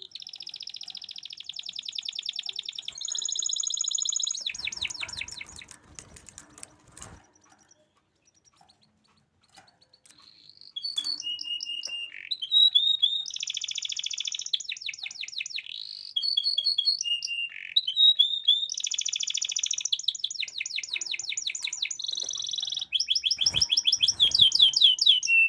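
Domestic canary singing in long, rapid trills and short chirps. The song breaks off for a few seconds near the middle, then resumes.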